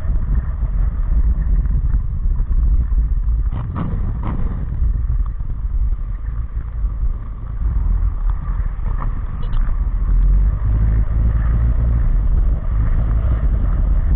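Scooter being ridden, heard from the rider's camera: a steady low rumble of engine and road noise, with a few faint clicks about four seconds in.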